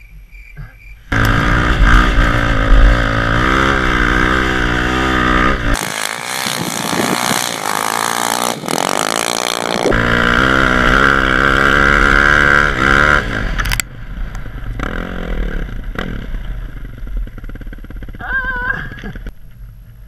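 Motorcycle engine running and revving, its pitch rising and falling; it comes in suddenly and loud about a second in and drops away abruptly about two-thirds of the way through, leaving a quieter engine sound.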